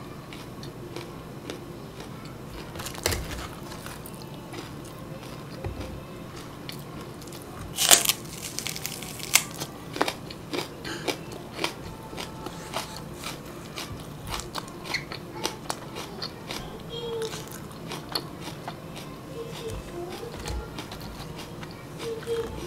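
Close-up crunchy eating of crispy-coated fried chicken and raw green-onion stalks: a steady run of small crisp crackles, with one loud crunching bite about eight seconds in.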